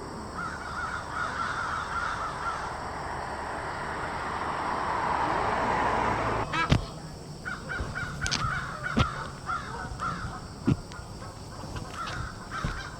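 Birds cawing repeatedly against night-time city ambience. A rushing noise swells and cuts off sharply about six and a half seconds in, followed by a few sharp clicks while the cawing continues.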